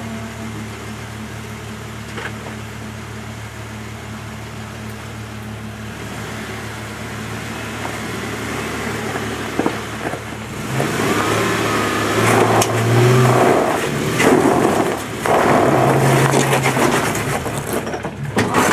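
Off-road Jeep engine running steadily at low revs, then from about ten seconds in revving harder in bursts under load as it crawls up a rock ledge, with knocks and scrapes from the tyres and underside on rock.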